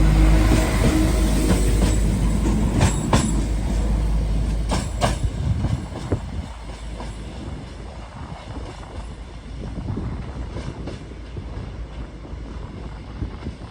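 Class 172 diesel multiple unit pulling away: a loud engine rumble with a steady tone. Its wheels click over rail joints in two quick pairs around three and five seconds in, then the train fades as it moves off.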